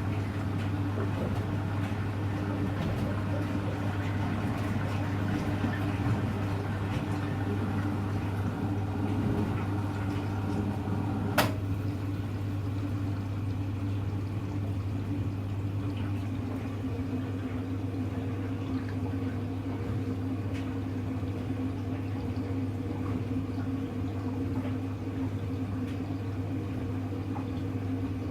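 Hoover Electra front-loading washing machine running mid-cycle, a steady low hum with water sounds, and one sharp click about eleven seconds in.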